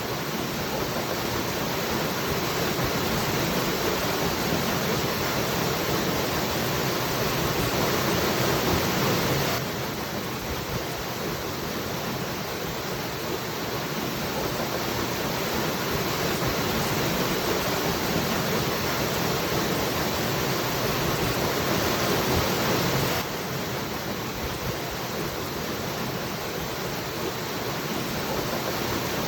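Waterfall rushing in a steady, dense hiss. The level builds slowly and then drops back suddenly, twice: about a third of the way in and about four-fifths of the way in.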